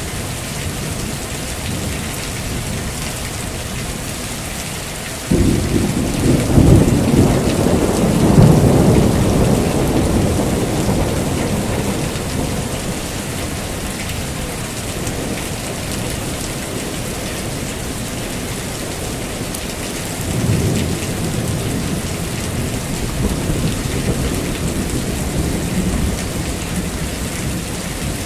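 Heavy rain falling steadily, with thunder: a sudden loud crack about five seconds in that rolls on as a deep rumble for several seconds before fading, and a second, softer rumble about twenty seconds in.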